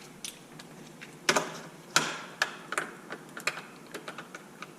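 Irregular sharp clicks and clinks of hand tools knocking against the parts of a radio-controlled truck during disassembly, about a dozen in all.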